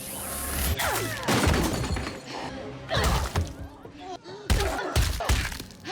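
Glass shattering in the first second, followed by a series of heavy thuds and impacts with short voiced cries in between.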